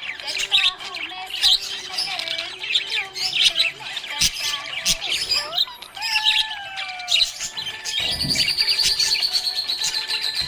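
Budgerigars chirping and warbling in quick, busy calls. A few gliding whistled notes come about six seconds in, and a fast, even high trill runs through the last couple of seconds.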